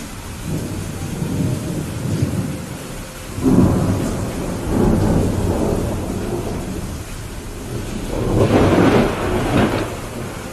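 Steady rain with rolling thunder. A low rumble builds about half a second in, a sharper thunderclap comes at about three and a half seconds and rolls on, and the loudest crack and rumble comes near the end.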